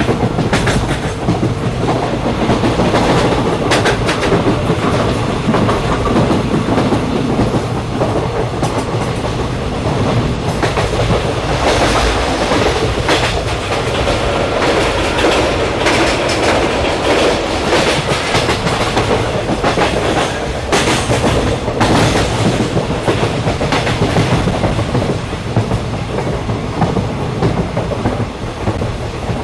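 Train running along the track: a steady rumble and hiss with clusters of clicks from the wheels passing over rail joints.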